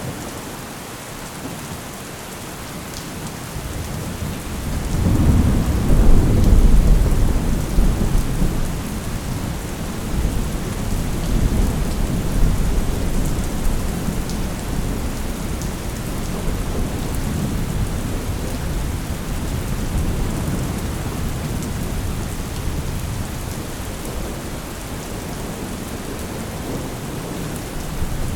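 Steady rain with a long rumble of thunder that swells about four seconds in, is loudest a few seconds later, then rolls on low and slowly dies away.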